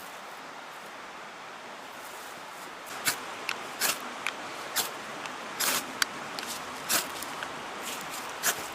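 A series of irregular sharp snaps or clicks starting about three seconds in, over a steady rushing background.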